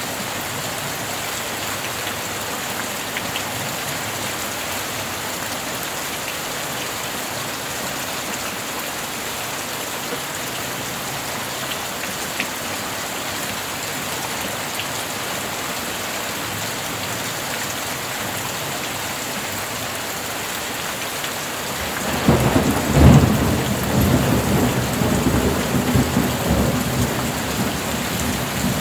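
Steady rain falling. About 22 seconds in, a clap of thunder breaks in and rumbles on in rolling waves.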